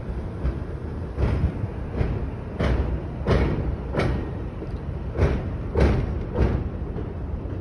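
Amtrak passenger train rolling by overhead: a low rumble with regular sharp clacks of the wheels over rail joints, about every two-thirds of a second. The clacks stop near the end as the last car passes.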